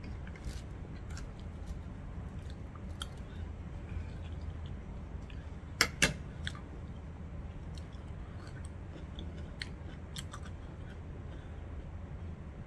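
A person chewing chicken poutine, with small wet mouth clicks and light taps of a metal fork on a plate; a sharper clink comes about six seconds in. A steady low hum lies underneath.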